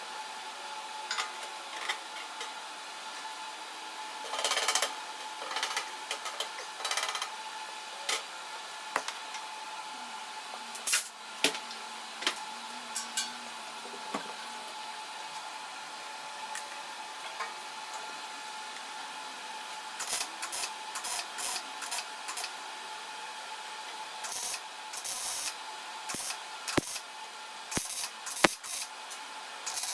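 Scattered light clicks, taps and rubbing of handling tools or metal parts over a faint steady hum, with the knocks coming more often in the last third.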